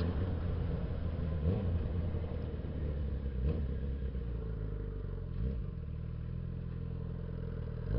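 Suzuki Bandit 650S motorcycle's inline-four engine running steadily at low revs while riding, with a few brief shifts in revs.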